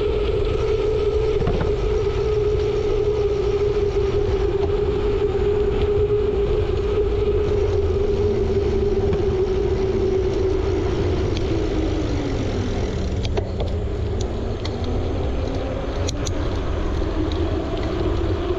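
Wind rumbling on the microphone while riding a bicycle, with a steady hum that sags in pitch about two-thirds of the way through and then climbs back.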